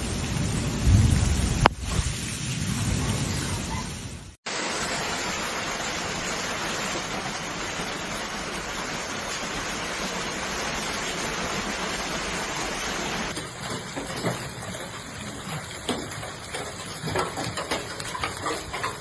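Thunderstorm sounds: a low rumble with one sharp crack in the first few seconds, then heavy rain pouring as a steady hiss, then a quieter downpour with scattered sharp taps of drops or hailstones striking hard surfaces.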